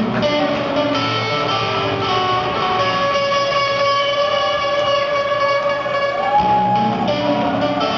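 Rock band playing an instrumental passage with electric guitars, long held notes over a steady backing, and a lead line that slides up in pitch about six seconds in.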